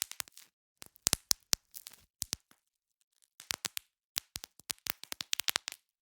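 Bubble wrap being popped: sharp, irregular pops in quick clusters, with a pause of under a second near the middle, then a fast run of pops in the second half.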